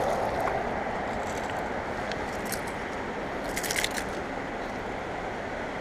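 Creek water running steadily, with a short cluster of crackling clicks about three and a half seconds in.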